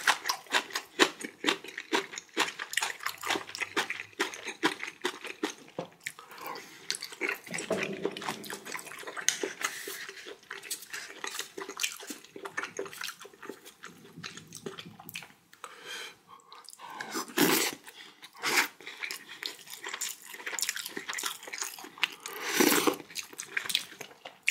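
Close-miked chewing and wet mouth smacking of a person eating raw fish sashimi: a dense, irregular run of sticky clicks, with a few louder, longer mouth sounds in the second half.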